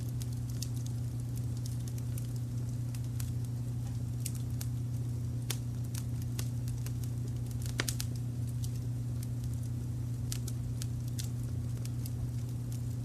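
Wood fire crackling, with irregular sharp pops and snaps, one louder snap about eight seconds in, over a steady low brown-noise rumble.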